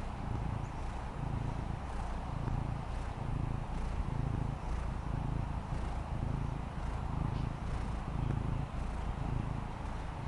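Maine Coon cat purring steadily, a low rumble that swells and fades in an even rhythm about every three-quarters of a second.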